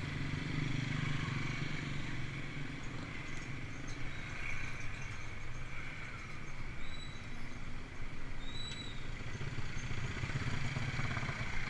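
A steady, low vehicle hum with road noise, and two short high chirps about seven and nine seconds in.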